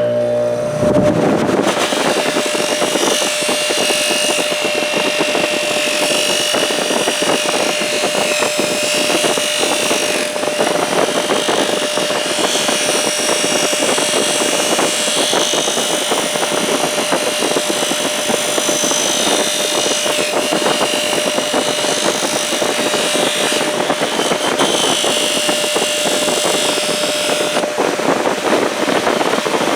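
Electric polishing machine running, a steady motor hum under a dense hiss from the spinning buffing wheel.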